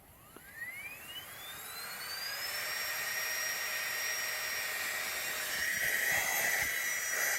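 A small electric motor starting up: its whine rises steeply over about two and a half seconds to a high, steady pitch, with a rush of air, and then keeps running.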